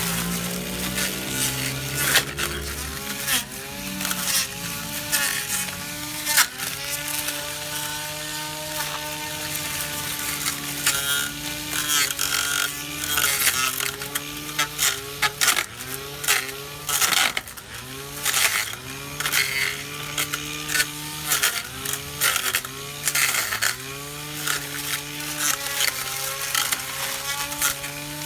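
Cordless battery-powered electric grass trimmer running while cutting grass: a steady motor whine that dips in pitch again and again as it bites into the grass and then recovers, with many scattered sharp ticks.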